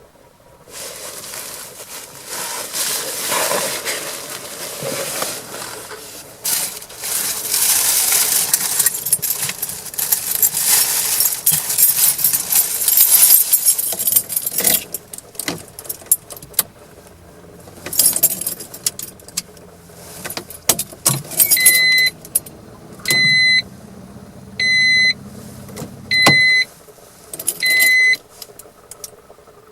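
Rustling and scraping noise full of clicks, then scattered clicks with keys jangling, then five short, high electronic beeps about a second and a half apart, before the engine is cranked.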